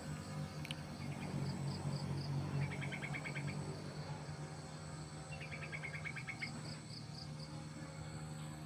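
Insects chirping in two short trains of rapid pulses, each about a second long, over a steady low hum.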